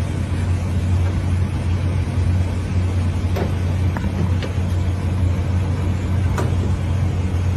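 A steady low engine drone, as of a vehicle running, with a few light clicks.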